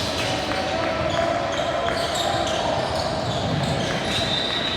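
Basketball bouncing on a gym court during play, a scatter of short thuds over the steady din of a gym, with voices.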